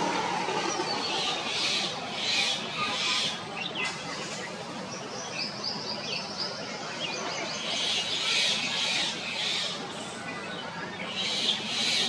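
Small birds chirping on and off, the calls coming in short groups, over a steady outdoor hiss.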